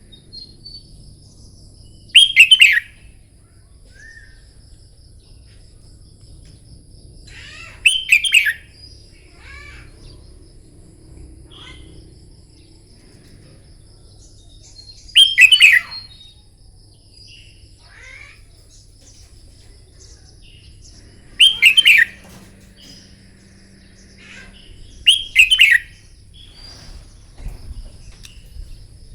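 Red-whiskered bulbul singing: five loud, short phrases a few seconds apart, with softer chirps between them and a faint steady high whine underneath.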